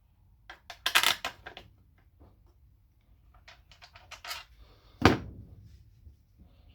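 Small steel bolts clicking and clinking as they are handled and set into the transmission case by hand. There are quick clusters of light clicks about a second in and again around four seconds, and one sharper metallic clink with a short ring about five seconds in.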